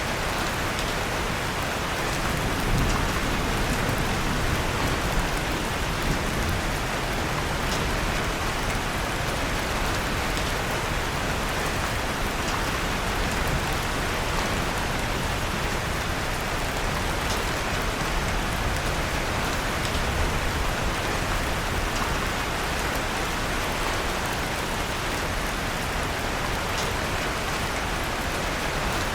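Steady rain ambience, an even wash of falling rain, with a few faint crackles of a wood fire in a fireplace mixed in.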